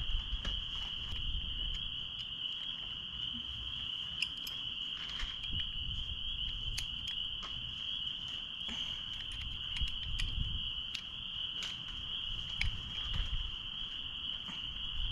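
Crickets chirping in a continuous high-pitched trill, with scattered small clicks and knocks of handling.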